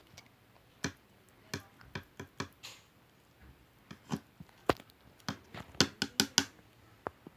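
Slime being squeezed and pressed by hand, giving irregular sharp pops and clicks as air pockets burst, with a quick run of louder pops about six seconds in.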